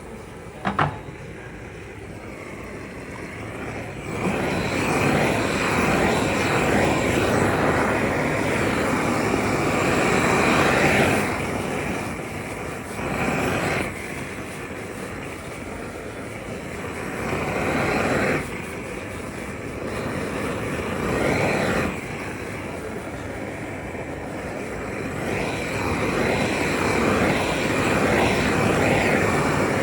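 A steady rushing machine noise that starts and stops in bursts of a few seconds each, several times over, with a sharp click about a second in.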